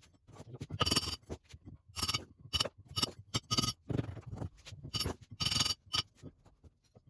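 A series of short scraping strokes with near-silent gaps between them, about two a second, each with a light metallic ring.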